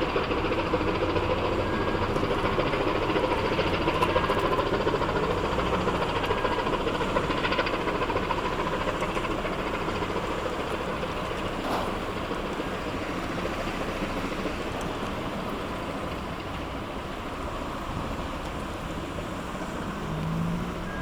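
Pusher tug's diesel engine running with a low, steady drone as it pushes its barge past, slowly fading as it moves away.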